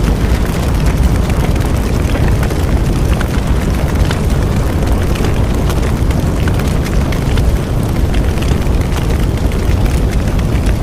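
Bonfire burning steadily, a dense low rumble of flames with frequent sharp crackles and pops from the burning wood.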